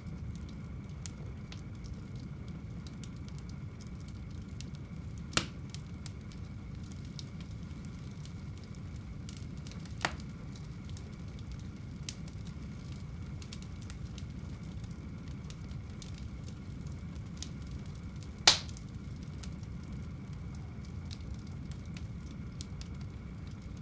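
Wood fire burning in a home fireplace: a steady low rumble with scattered faint crackles and three sharp louder pops, the loudest near the end.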